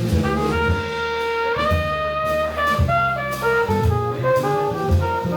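Live jazz band playing: a horn holds long, smooth notes over bass and drums.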